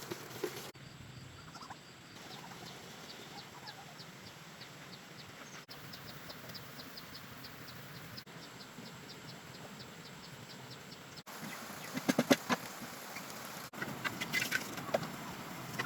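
Chickens clucking, with a few louder clucks about twelve seconds in and again near the end, over a steady outdoor background. In the middle there is a fast, high, even ticking chirp at about four a second.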